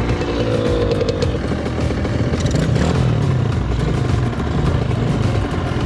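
Two-stroke dirt bike engine running and being revved, its pitch climbing over the first second or so, then dropping back and wavering.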